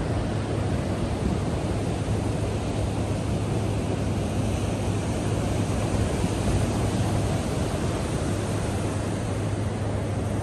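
Pacific Ocean surf breaking on the beach, a steady, even wash of noise with a constant low rumble.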